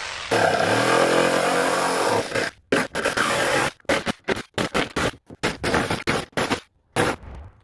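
Electric power saw cutting plywood, its motor pitch sagging and recovering as the blade loads. After about two seconds it gives way to short, irregular scraping and cutting noises broken by brief pauses.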